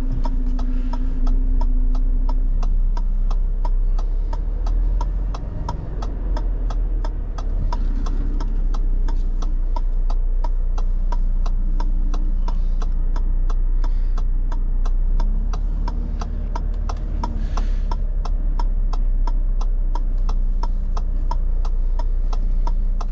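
Evenly spaced indicator ticking in a lorry cab, about two ticks a second, over the low, steady running of a Renault Trucks T480's diesel engine as it manoeuvres at low speed.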